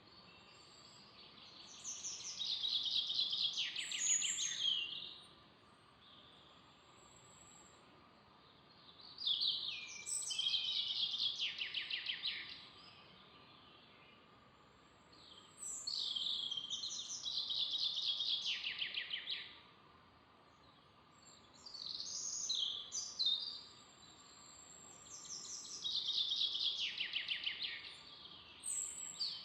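A songbird singing the same short song over and over: five phrases of about two to three seconds, each a rapid trill that drops in pitch, coming about every six seconds.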